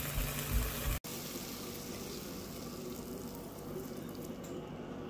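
Sliced okra sizzling in a nonstick frying pan after its steaming water has cooked off, leaving it frying in a little oil. The sound cuts off abruptly about a second in and a softer, steady hiss follows.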